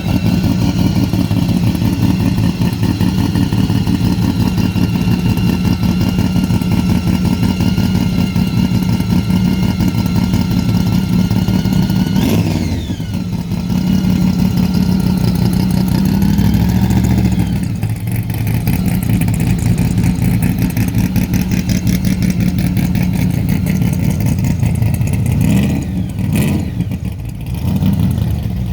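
Car engine running steadily, with a brief dip in pitch about twelve seconds in and a few smaller shifts later on.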